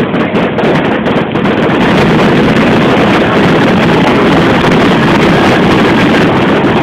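Fireworks finale barrage: a rapid string of cracking bangs in the first second or so that runs together into a loud continuous rumble.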